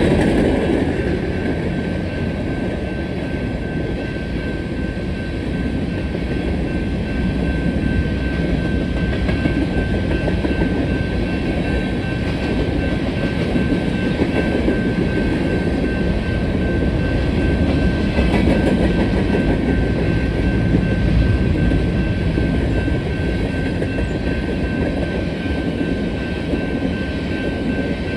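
A Union Pacific unit grain train's covered hopper cars rolling past at speed, a steady rumble of steel wheels with a clickety-clack over the rail joints.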